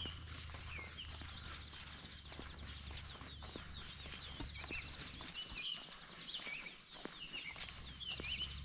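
Footsteps along a trail, with birds calling in short chirps and insects buzzing in a steady high drone.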